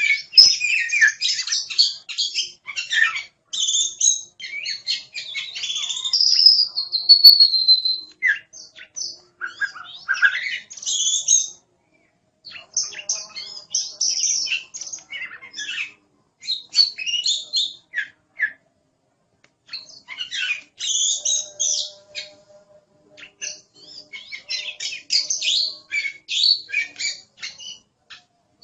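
Oriental magpie-robin (kacer) singing energetically in quick, varied phrases of chirps and whistles, broken by short pauses. About six seconds in it holds a long whistle that slides down in pitch.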